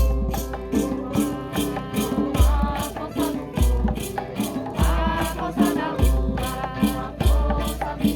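Devotional hymn music. Maracas are shaken in a steady rhythm of about three strokes a second over pitched instruments and voices, with a deep beat about every second and a bit.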